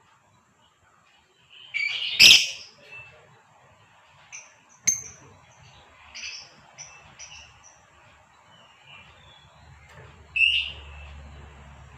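Female lovebird calling: a loud shrill call about two seconds in, a run of short high chirps, and another shrill call near ten seconds. There is a single sharp click about five seconds in.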